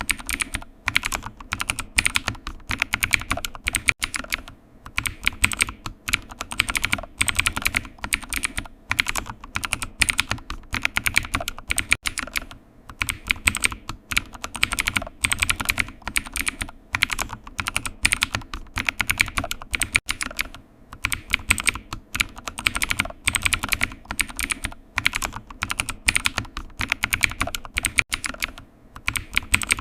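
Typing on a computer keyboard: quick runs of key clicks with brief pauses between bursts.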